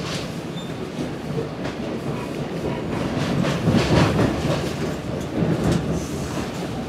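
Inside a moving NJ Transit Multilevel commuter coach: steady rumble of the wheels on the rails with scattered clicks. It swells loudest for about a second near the middle.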